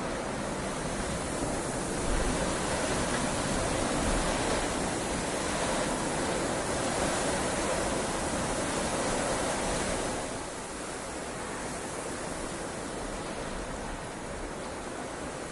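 Heavy rain falling steadily as an even hiss. It is a little heavier for most of the first ten seconds, then eases slightly.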